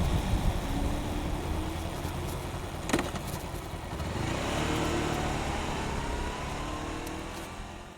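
Honda Rebel 500's parallel-twin engine running through its stock exhaust on the move, under heavy wind rush on the microphone. A sharp click comes about three seconds in, and in the second half the engine note rises steadily before the sound fades out at the end.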